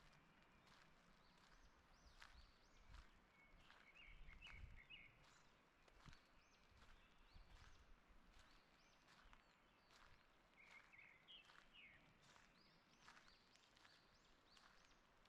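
Faint footsteps on a forest path at a steady walking pace, with songbirds singing. Two quick twittering bird phrases stand out, about four seconds in and again about eleven seconds in.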